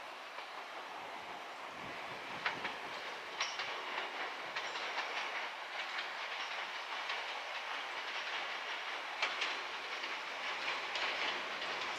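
Izukyu 2100 series Resort 21 'Kinme' electric train moving along the track, its wheels clicking and clacking over rail joints. The sound slowly grows louder as the train draws nearer.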